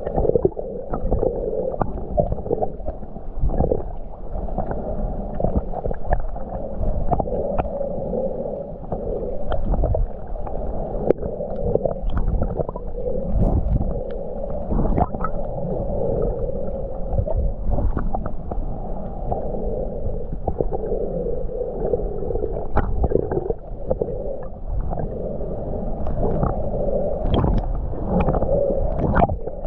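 Muffled underwater sound heard through a camera's waterproof housing: water moving and gurgling, with scattered short clicks.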